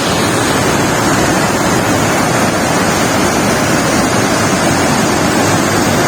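Steady rush of water pouring down Pykara Falls, an even, unbroken roar.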